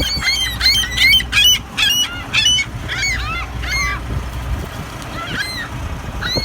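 A flock of gulls calling, many short arched squawks overlapping in a busy chorus that thins out after about three seconds.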